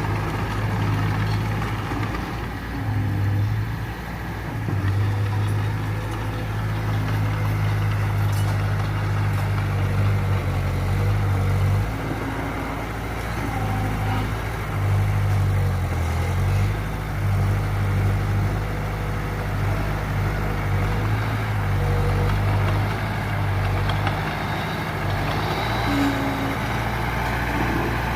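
Heavy diesel engine of earthmoving machinery running, its low hum shifting in pitch and level every few seconds as the machine works.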